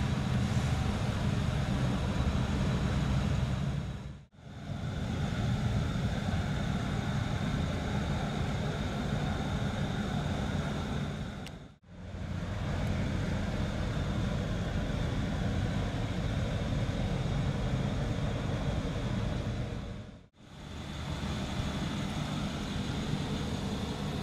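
Steady low rumble of an idling car engine with outdoor background noise, broken by brief fade-outs between takes, about 4, 12 and 20 seconds in.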